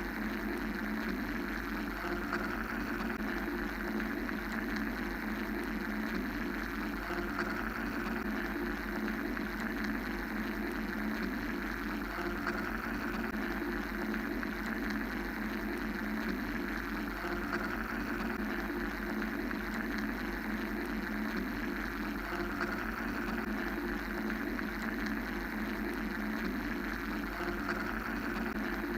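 Steady mechanical white-noise drone: a constant low hum and a midrange rumble under a hiss that slowly swells and eases every several seconds.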